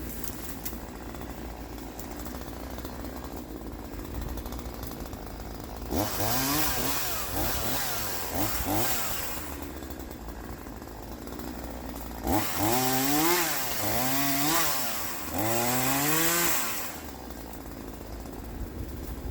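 Troy-Bilt TB4218 42 cc two-stroke chainsaw idling, then revved in quick throttle blips, a few about six seconds in and a louder group around twelve to seventeen seconds in, before it drops back to idle.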